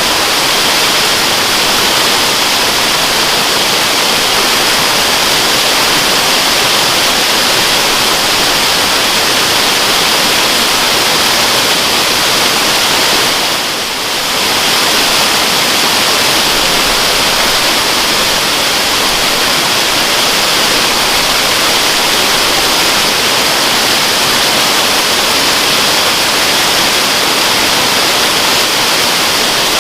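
Waterfall: a steady, loud rush of falling water, with a brief dip in level about halfway through.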